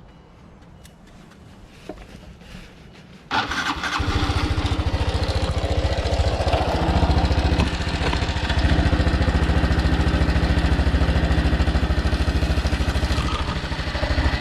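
Honda Super Cub Pro's single-cylinder four-stroke engine being started: a few small clicks, then about three seconds in it cranks briefly, catches and runs with a fast, regular beat. This is the engine that the owner is showing for an abnormal noise.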